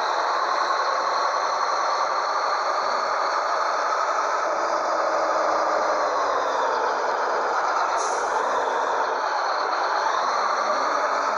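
Scania 112H T360 truck's six-cylinder diesel running, a steady drone whose pitch sinks slowly and climbs again near the end. A short high hiss about eight seconds in.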